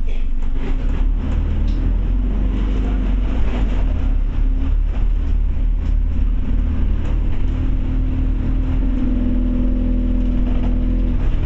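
Scania OmniCity bus heard from inside while it drives: its diesel engine runs with a steady low drone, under frequent light rattles and knocks from the bodywork. The engine note grows stronger for a couple of seconds near the end.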